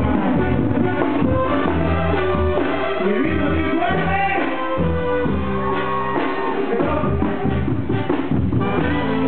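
Latin band music with brass over a pulsing bass line.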